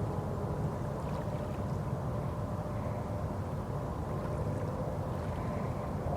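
A boat's motor running steadily: an even low rumble with a faint steady hum above it.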